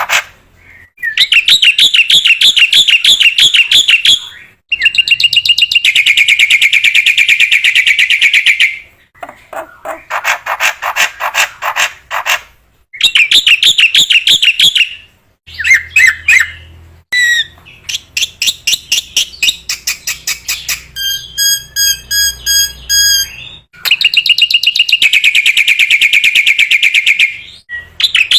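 Black-winged myna (jalak putih) singing loudly in bouts of rapid, chattering repeated notes, each bout a few seconds long with short pauses between. A run of short, evenly spaced whistled notes comes past the middle.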